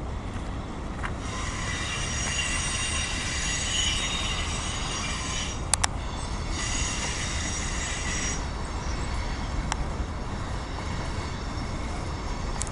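Freight cars of a CSX mixed freight train rolling past with a low rumble, their wheels giving a high squeal on the rail in two stretches of a few seconds each. A few sharp clicks come through partway in.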